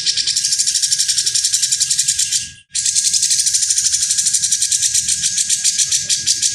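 A songbird's harsh, rasping song (the 'besetan kasar' type of masteran), a fast buzzy pulsing at about eight pulses a second. It breaks off for a moment just before three seconds in, then carries on.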